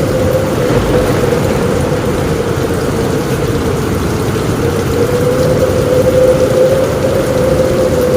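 Heavy rain drumming steadily on a roof, a dense even rush weighted low, with a steady slightly wavering tone running through it. No single thunder crack stands out.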